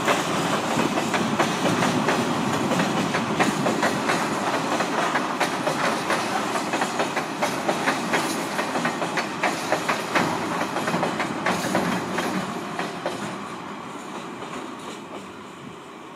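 Freight train's gondola wagons rolling past, their wheels clicking over rail joints in a steady clickety-clack, fading over the last few seconds.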